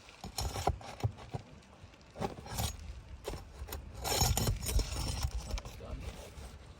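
Steel roofing flat bar scraping and knocking against dimensional asphalt shingles as the shingle's nails are pried out, in irregular clicks and gritty scrapes.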